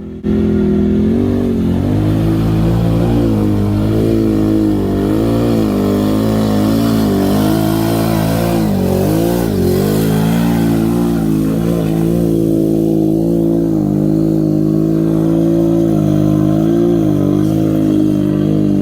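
Big off-road truck engine running hard, its pitch wavering up and down with the throttle and then settling into a steadier drone. It starts abruptly about a third of a second in.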